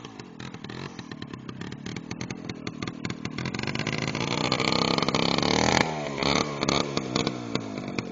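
Minsk motorcycle's single-cylinder two-stroke engine under throttle, growing steadily louder as the bike comes toward the listener, then dropping sharply about six seconds in as the throttle is closed, followed by uneven blips of throttle.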